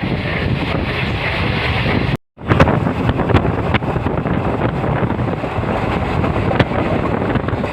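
Moving train heard from aboard: a steady rumble with wind buffeting the microphone and a few sharp clicks. The sound cuts out for a moment about two seconds in, then resumes.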